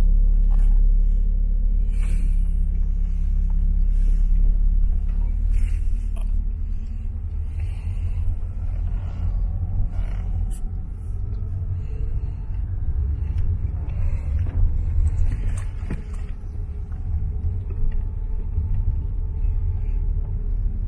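Honda Element driving, heard from inside the cabin: a steady low rumble of engine and road noise.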